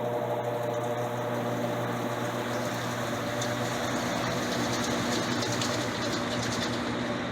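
Electrolux LTC10 washing machine running mid-cycle on its jeans program: a steady mechanical hum with a droning tone. After about four seconds the tone weakens into a rougher, noisier running sound.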